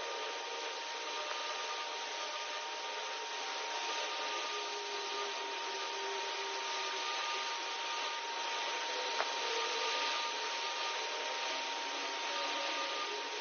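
Pulse laser cleaning machine ablating the surface of a railway wheelset: a steady dry hiss with a thin steady whine, and a single sharp click about nine seconds in.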